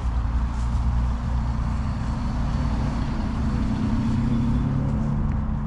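A car engine running close by with a steady low rumble that swells a little about halfway through.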